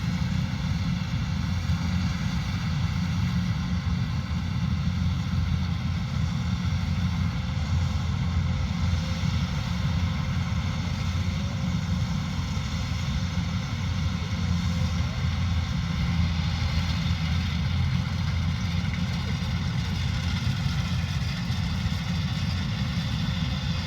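Kubota combine harvester running steadily, a deep engine drone with a steady high-pitched whine of several tones above it.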